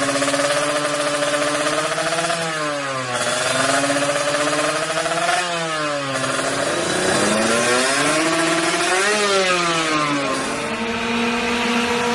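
Kawasaki Ninja 150 single-cylinder two-stroke engine through an aftermarket racing exhaust, idling and revved three times: two quick throttle blips, then a slower, longer rev, each dropping back to a steady idle.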